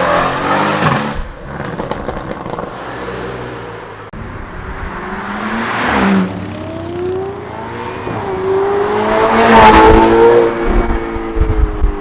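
Cars accelerating past one after another, engine pitch rising under hard throttle and dropping away as each passes. One pass comes about halfway through, and the loudest, a climbing rev, comes near the end.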